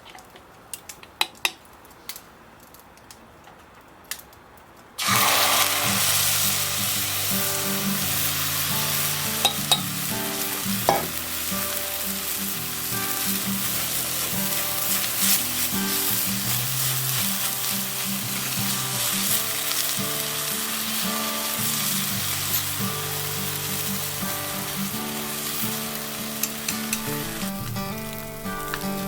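Food frying and sizzling over a shichirin charcoal grill, a dense steady hiss that starts suddenly about five seconds in after a few quiet clicks. Background music plays along with it.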